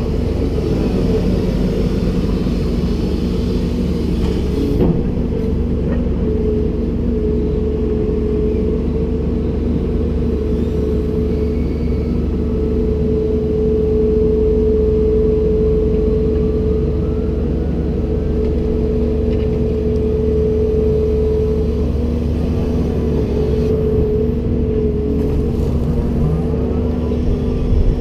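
Komatsu PC290-10 excavator running, its diesel engine a steady low drone with a held whine over it that grows stronger through the middle of the stretch.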